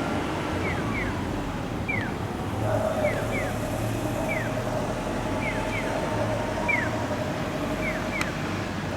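Train noise at a station platform: a steady low rumble, with a steady mid-pitched tone coming in about three seconds in. Over it, a repeating electronic bird-chirp guide sound plays, a pair of short falling chirps then a single one, roughly once a second.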